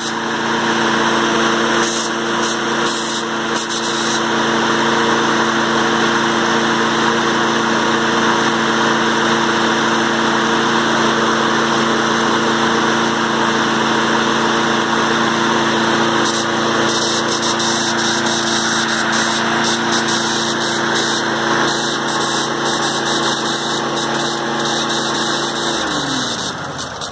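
Briggs & Stratton 8.5 Professional engine on a Snapper mower running steadily, carrying a strange noise that the owner believes has something to do with the recoil pull cord. Near the end it is shut off and winds down, falling in pitch.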